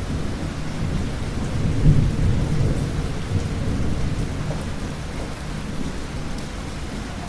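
Thunder rumbling, swelling to its loudest about two seconds in and then slowly fading, over steady rain.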